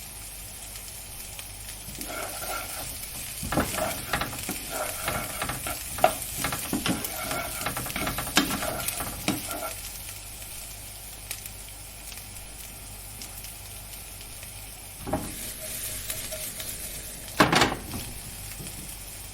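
Food sizzling as it fries in a pan, a steady hiss, with a stretch of stirring and utensil clatter from about two to ten seconds in and a couple of sharper knocks near the end.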